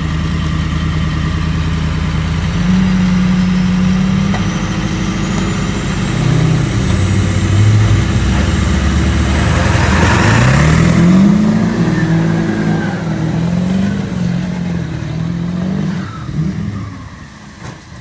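A vehicle engine straining to pull free from deep mud, revving up and down again and again, with a rush of noise about ten seconds in. The sound drops away near the end.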